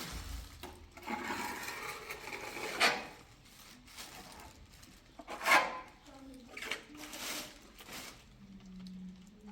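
Scattered knocks and rubbing or clattering sounds, two sharper knocks standing out, with a faint voice here and there and a low hum near the end.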